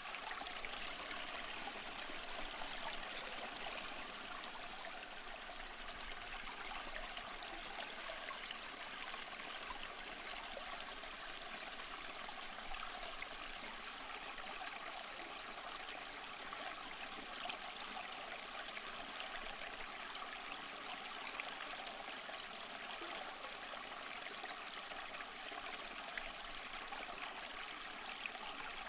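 Stream flowing, a steady, even rush of water with small trickling flecks.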